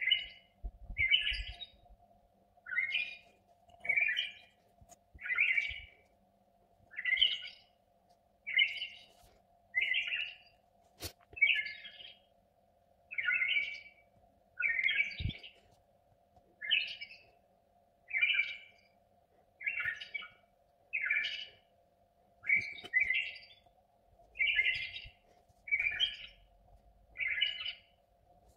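A bird chirping over and over, a short call about every second and a bit, with a faint steady hum underneath and one sharp click about halfway through.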